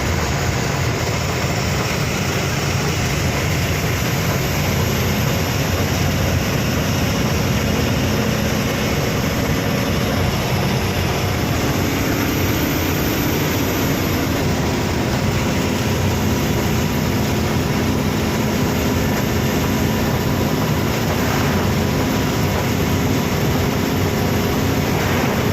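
Truck running steadily, its engine noise mixed with a dense, even roar of mechanical and road noise, with no breaks; the low engine tones shift slightly in pitch about halfway through.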